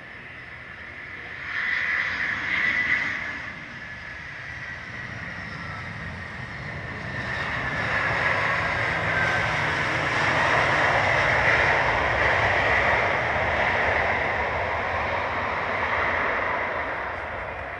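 Aircraft engines passing: a rushing noise with a high whine that slowly falls in pitch, swelling to its loudest about ten seconds in and easing near the end, with a shorter louder swell about two seconds in.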